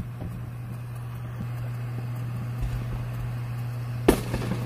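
Steady low hum, broken about four seconds in by a single sharp firework bang that rings out briefly.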